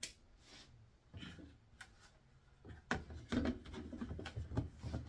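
Kitchen items being handled on a table: faint at first, then a string of light knocks, clicks and rubbing from about halfway through.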